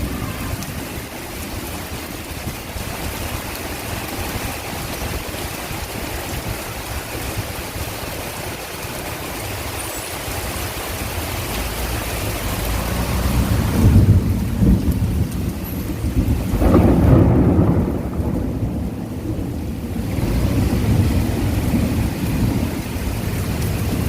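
Heavy rain falling steadily, with thunder rumbling low and loud twice past the middle.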